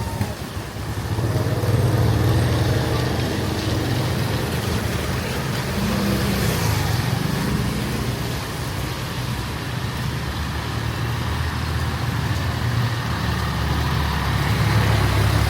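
Street traffic: motor vehicle engines running close by with a steady low rumble, one engine's pitch rising and falling briefly about six seconds in.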